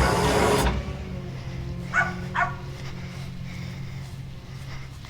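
A dog barks twice in quick succession, about two seconds in, over a steady low engine hum. A short, loud rush of noise comes at the very start.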